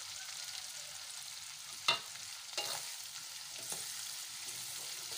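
Ground spice paste of shallot, garlic and chili sizzling in hot oil in a metal wok, stirred with a metal spatula that scrapes and knocks against the pan, sharpest about two seconds in. The paste is being fried until fragrant.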